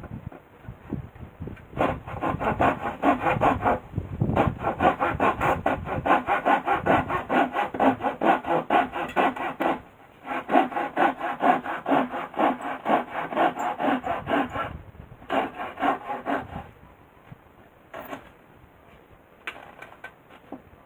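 Handsaw cutting through wood with quick back-and-forth strokes, about four to five a second, in three runs with short pauses between.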